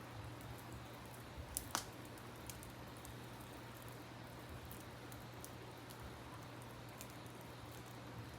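Wood campfire crackling with scattered small snaps and a few sharper pops about one and a half seconds in, over the steady rush of a river.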